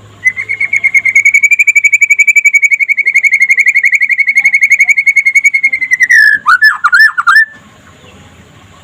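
White-rumped shama singing a long rapid trill, a fast even stream of notes held near one pitch for about six seconds, ending in a few quick downward-sweeping notes before it stops.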